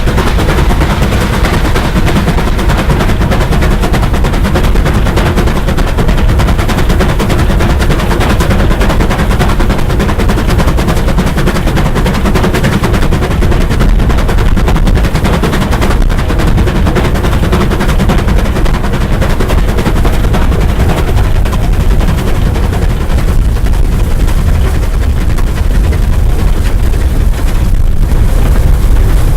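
Bulleid steam locomotive working hard, its exhaust beats coming in a rapid, continuous stream. Loud and sustained, growing a little louder near the end.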